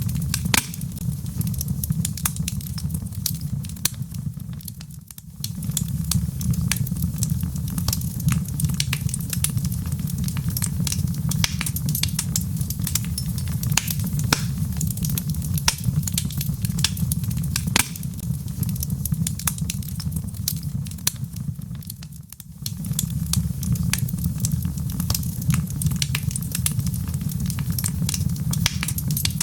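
Wood fire crackling in a fireplace: a steady low rumble of flames with frequent sharp pops and snaps. The sound dips briefly twice, about five seconds in and again near the twenty-two-second mark, then comes back as before.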